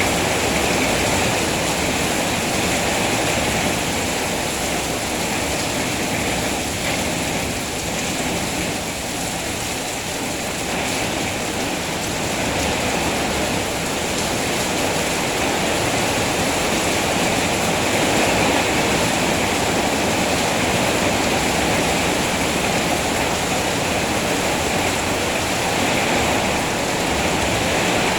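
Rain falling steadily, an even wash of noise without breaks or single events.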